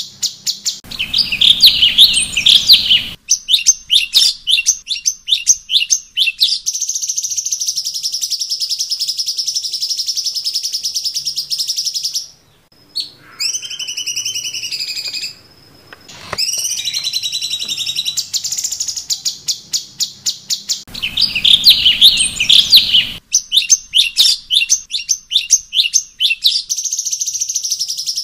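Cucak cungkok bird song, a masteran recording: fast ticking chatter and buzzy trills with loud harsh bursts, and a few rising and falling whistled notes in the middle. The same phrases repeat about twenty seconds apart.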